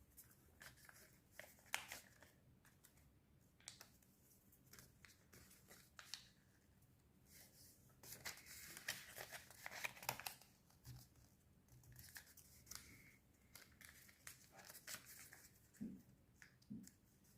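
Faint rustling and crinkling of a sheet of colour paper being folded and creased by hand, in scattered soft crackles with a slightly louder stretch of handling in the middle.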